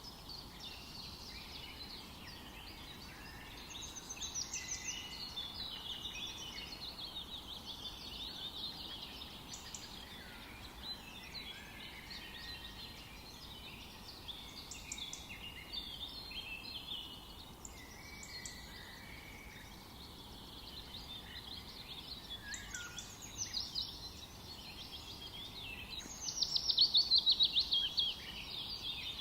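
Several songbirds singing and chirping at once in a forest chorus, over a faint steady background hiss, with a loud rapid trill near the end.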